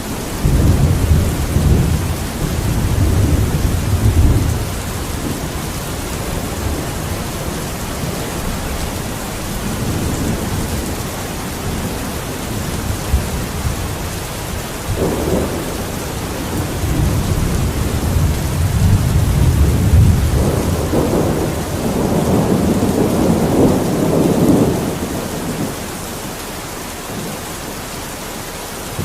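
Steady rain falling, an even hiss, with two long, low rumbling swells: one in the first few seconds and a stronger one in the second half.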